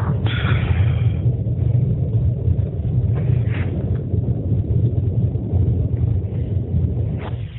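Chimney fire burning inside the flue: a loud, steady low rumble of flame and draft, with brief higher hissing flares near the start, about three and a half seconds in, and near the end.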